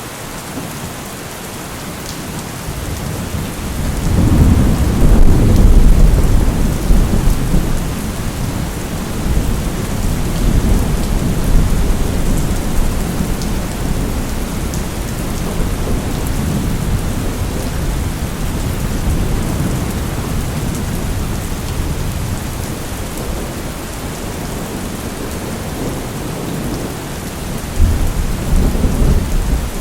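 Steady rain with rolling thunder. A long low rumble builds a few seconds in, peaks and slowly rolls away, and a sharper clap of thunder comes near the end.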